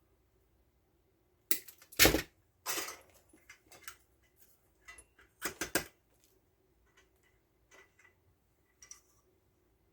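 Knocks and clatter of tools and small parts being handled and set down on a workbench: a sharp knock about two seconds in, a quick double clack a little past halfway, then only light ticks and clicks.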